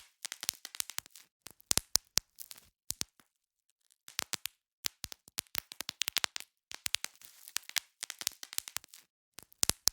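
Bubble wrap being popped by hand: irregular clusters of sharp snapping pops, several in quick succession, with a short pause about three seconds in.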